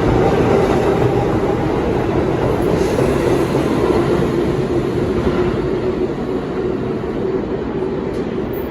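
R42 subway train running, a loud steady rumble with a humming tone, slowly getting quieter.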